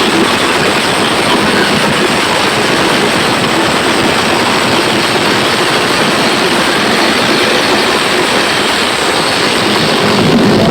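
Very loud sound-system playback heard as a steady, dense, distorted wash with no clear tune.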